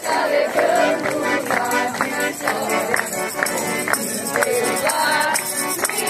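Live accordion music with percussion keeping a steady beat.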